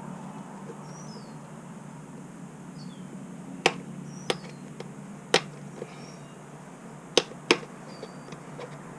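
Sharp metallic clicks and clacks of parts and hand tools being handled during motorcycle reassembly, five or six separate knocks, two of them close together near the end. A steady low hum and faint high chirps lie underneath.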